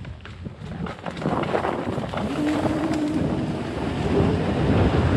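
Wind buffeting the microphone while riding a modified Razor MX6000 electric dirt bike, growing louder as the bike speeds up. A faint whine from the electric drive rises slightly in pitch partway through.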